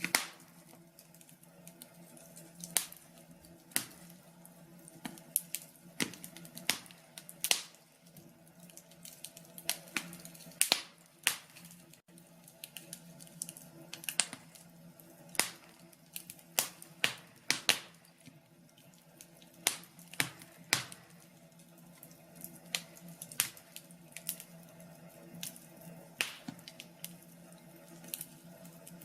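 Wood fire in a fireplace crackling: irregular sharp pops and snaps, sometimes in quick clusters and sometimes a second or two apart, over a faint steady low background.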